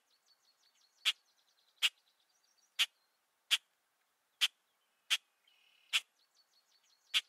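Faint bird twittering under a sharp click repeated about once a second, eight clicks in all.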